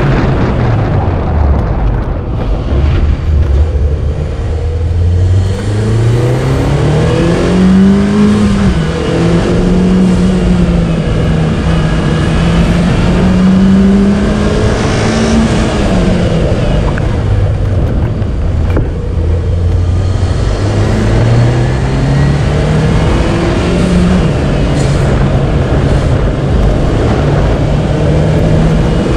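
Mitsubishi Lancer Evolution X's turbocharged 2.0-litre four-cylinder engine driven hard, its pitch climbing, holding high, dropping and climbing again as the driver works the throttle. Steady tyre and road noise runs underneath.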